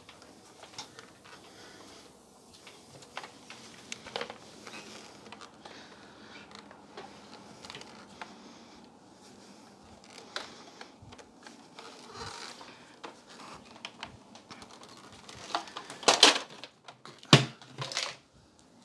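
Plastic vacuum cleaner parts being handled and cleaned by hand: irregular clicks, taps and rubbing, with a few louder knocks near the end.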